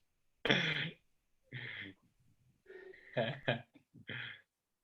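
Four short, indistinct bursts of a person's voice, with dead silence between them.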